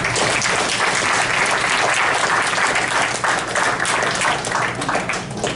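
Audience applauding as a student is called up, a steady patter of many hands clapping that starts right away and eases off near the end.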